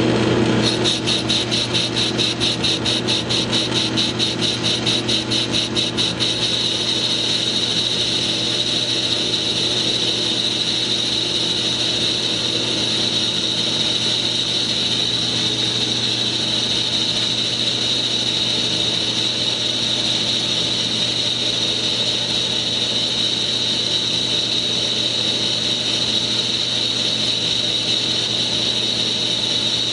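South Bend lathe running while an insert boring bar takes a light cut in a cast iron bore. There is a low steady motor hum and a steady high hiss. A fast regular pulsing runs for the first six seconds, then the sound settles.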